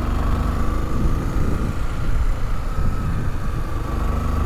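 Honda XRE 300's single-cylinder four-stroke engine running under way in a low gear, heard from the rider's seat as a steady, uneven rumble.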